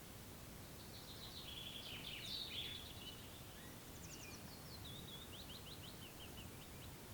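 Songbirds singing faintly: a jumbled chattering phrase about a second in, then from about four seconds quick runs of short high notes that step down in pitch. Under them, a steady low background hiss of outdoor ambience.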